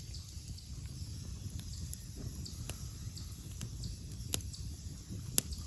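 Low steady outdoor rumble with a few sparse, sharp clicks or snaps, the two loudest coming about four and five seconds in.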